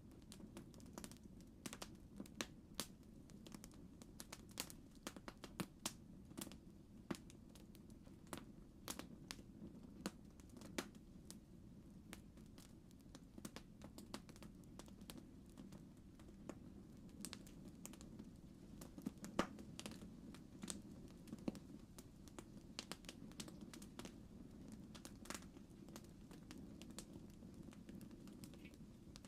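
Faint campfire crackling: irregular sharp pops and snaps over a steady low rumble of the burning fire, with one louder snap a little past the middle.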